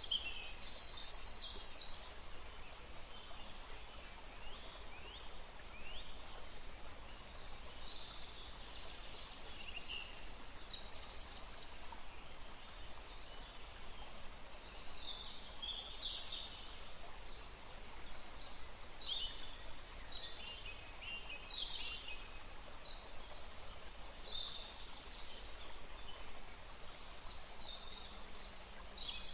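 Wild birds chirping and calling in many short, high phrases scattered throughout, over a steady background rush of outdoor noise.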